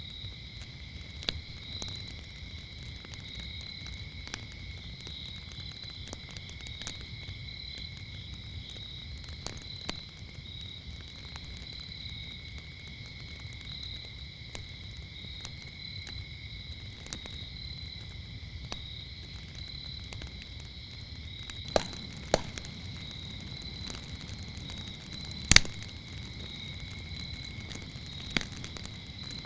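Wood fire crackling, with scattered sharp pops; a few louder pops come in the last third. Under it, crickets chirp in a steady high trill.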